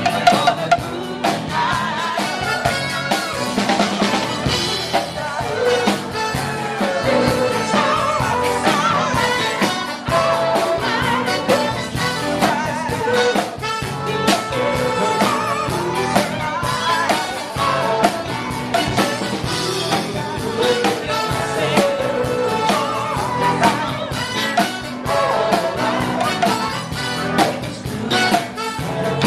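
Live band music with singing over a drum kit, played loud and with a steady beat.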